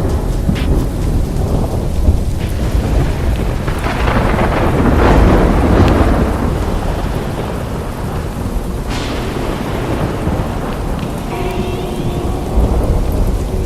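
Heavy rain falling, with a long roll of thunder that swells and peaks about five seconds in, then fades back to steady rain.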